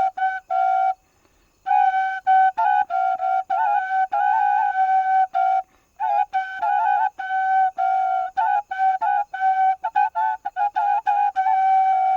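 Solo wind instrument playing a melody of short, ornamented notes with quick trills, pausing briefly about a second in and again near the middle.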